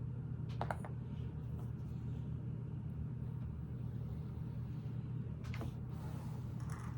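Steady low background hum, with a few faint clicks of plastic Lego pieces being handled about half a second in and again near the end.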